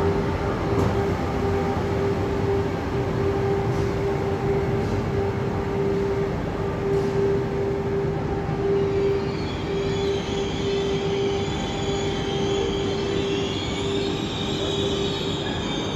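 Train sounds at the platform beside an Iryo Frecciarossa 1000 high-speed electric train: a steady hum with one held mid-pitched tone. From about ten seconds in, a high-pitched squeal of train wheels on the rails comes in over it.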